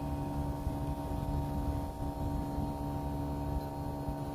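Outdoor unit of an LG Dual Inverter split air conditioner running: a steady hum with several held tones over a low rumble.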